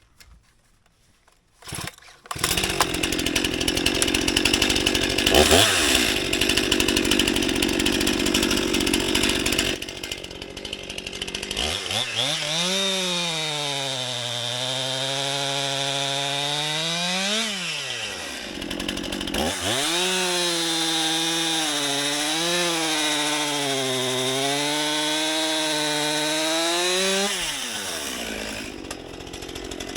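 Stihl MS 261 C-M two-stroke chainsaw cutting into a tree: it starts about two seconds in and saws hard for several seconds. Then, in two long stretches with a brief let-up between them, the engine note rises and falls as the chain works through the wood.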